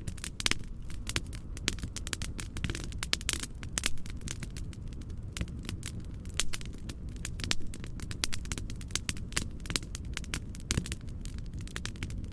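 Wood fire crackling in a fireplace: dense, irregular pops and snaps over a steady low rumble of noise.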